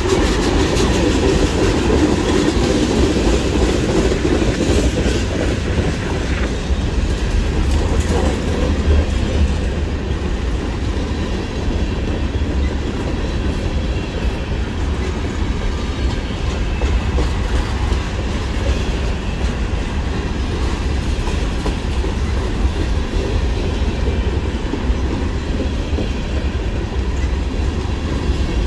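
Freight train rolling past, a steady rumble of cars on the rails.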